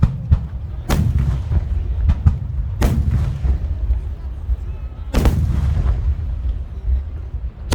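Large aerial firework shells bursting with sharp booms, about five in a row at uneven intervals, each trailing off in an echo, over a continuous low rumble.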